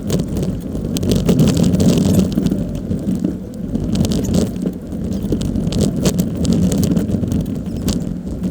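A Jeep driving over sand: its engine runs in a steady low drone, with frequent short clicks and knocks from the vehicle rattling and bumping along.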